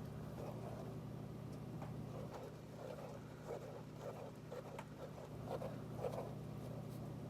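Homemade slime being mixed in its container: a run of soft, irregular sounds about every half second over a faint steady hum.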